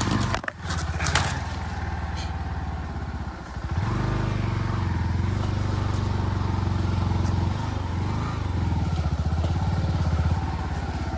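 Motor vehicle engine running under way, with a few knocks in the first second, then getting louder at about four seconds in and holding steady.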